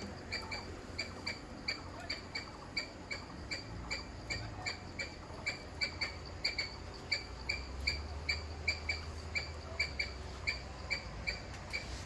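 A bird repeating a short, sharp chirp steadily, about three chirps a second.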